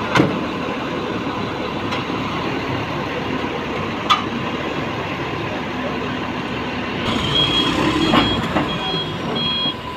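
Heavy construction machinery running steadily with a couple of sharp knocks. About seven seconds in, a vehicle's reversing alarm starts beeping at a steady pace, roughly twice a second.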